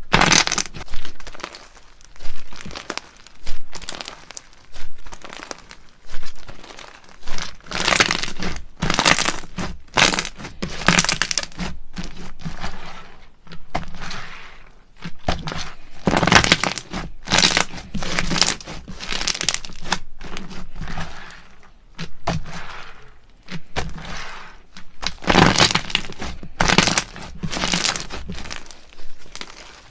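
Slime being squeezed and worked by hand, giving short, irregular bursts of crisp crackling noise about once a second.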